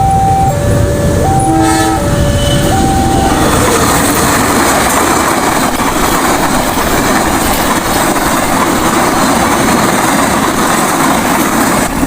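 Level-crossing warning signal alternating between two tones, with a brief horn toot about a second and a half in. From about three and a half seconds a train passes over the crossing, its wheels and carriages making a loud, steady rumble on the rails.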